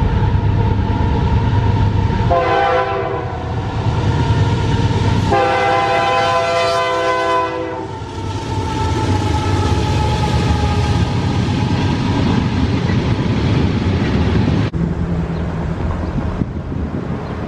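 Locomotive air horn sounding over the rumble of a passing train: a short blast about two seconds in and a longer one a few seconds later. The train's rumble carries on, and the sound changes abruptly near the end.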